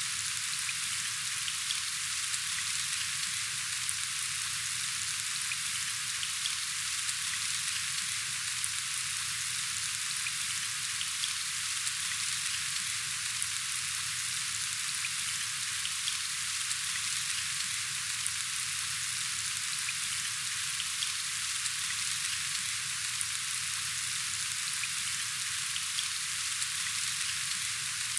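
Steady rain falling: a dense, even hiss with fine ticks of individual drops, unchanging throughout.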